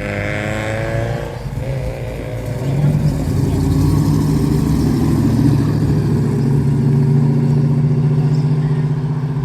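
Car engine running as a car leaves the car meet: a falling engine note in the first second or so, then from about three seconds in a loud, steady engine note that holds until it drops away at the end.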